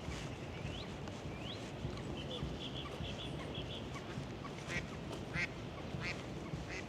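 Ducks and other waterfowl calling: a quick run of short calls about two seconds in, then several louder single calls, over a steady low city rumble.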